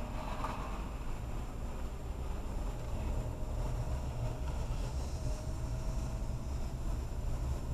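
A car driving at a steady speed: a continuous low engine and road rumble with some wind noise.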